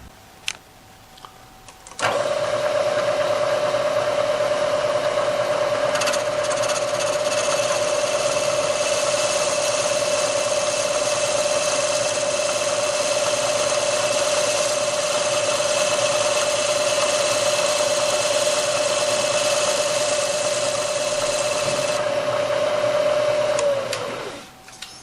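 Machine tool motor switched on about two seconds in, running with a steady whine; from about six seconds a higher hiss of the cutter trimming the lip off the sleeves fitted in the throttle-body bores joins it. Near the end the cutting stops and the motor is switched off, its pitch falling as it winds down.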